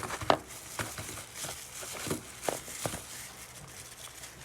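Chicken strips being tossed and pressed in dry breading mix, with light rustling and about six sharp little taps in the first three seconds that thin out toward the end.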